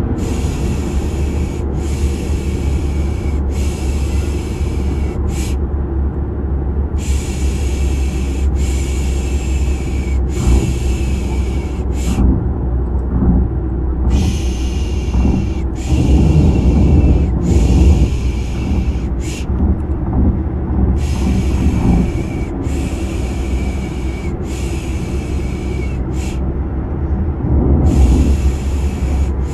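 Steady low rumble of a car's engine and road noise, overlaid with looped 'shh' shushing for lulling a baby to sleep: three long shushes and one short one, repeating about every seven seconds.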